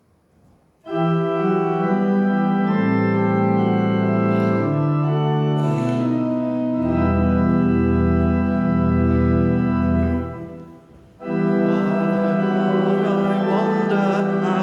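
Organ playing the introduction to a hymn in sustained chords. It comes in about a second in, breaks off briefly about ten seconds in, then starts again.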